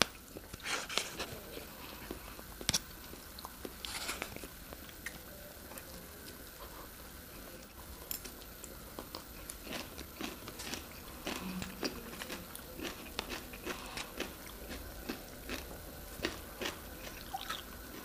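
Close-up eating sounds: chewing and wet mouth clicks while instant noodles are eaten, with a fork now and then tapping and scraping in the noodle cup. Many short, irregular clicks.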